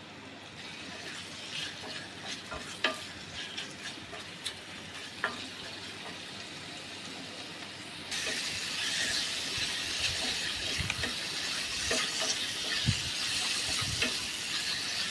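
Chicken cooking in a pan while being stirred, with scattered scrapes and knocks over a sizzle. About eight seconds in, the sizzle turns suddenly louder and hissier.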